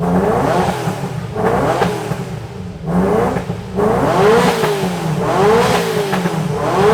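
Ferrari F40's twin-turbo V8, stationary, being blipped over and over: about six quick rev rises and falls, roughly one a second, each dropping back to idle.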